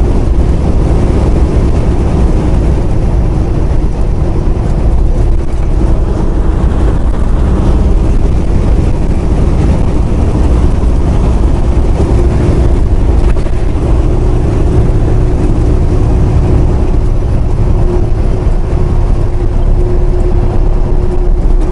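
Semi truck's diesel engine and road noise droning steadily inside the cab while driving.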